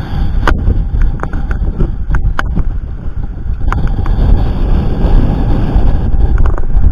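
Wind buffeting the microphone aboard a sailing yacht under way, a heavy steady rumble with several sharp knocks scattered through it.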